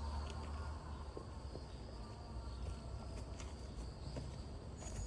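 Outdoor ambience: insects chirring steadily over a low rumble, with a few faint taps and scuffs.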